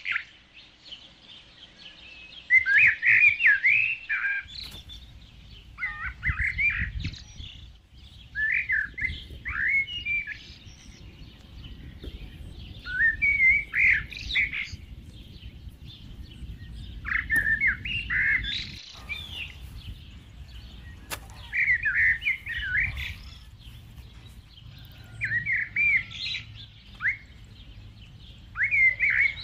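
A songbird singing a short, quick, warbling phrase of several notes, repeated eight times at intervals of about three to four seconds.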